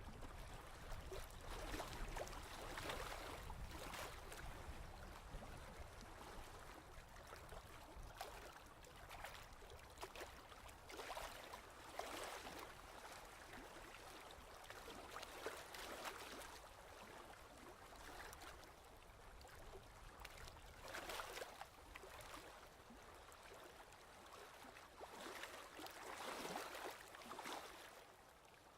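Ocean waves washing in softly, the hiss of surf swelling and fading every several seconds.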